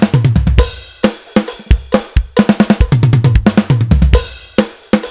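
Acoustic drum kit playing a short groove and a fast 16th-note fill of single strokes around the snare and toms. Each fill lands on a crash cymbal with the bass drum, and the fill comes round twice.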